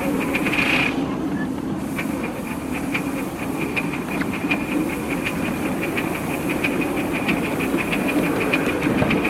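A 5-inch gauge live-steam model of the LMS Duchess of Hamilton locomotive running, with a steady hiss of steam and a quick, regular ticking beat.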